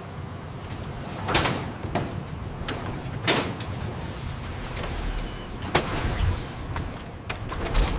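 Factory machinery running with a steady low rumble, broken by several sharp bursts of noise, the strongest about two seconds apart.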